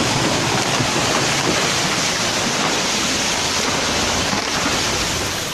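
Steady, loud rush of water, typical of fast-flowing floodwater.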